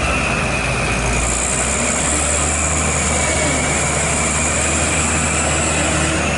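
Truck engine idling steadily with a constant low hum. A steady high-pitched hiss joins it about a second in.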